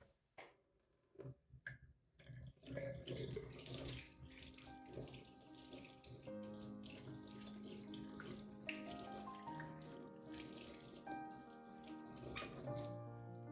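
Water running from a tap into a sink, starting a couple of seconds in after a few light clicks. Soft background music comes in under it about halfway through.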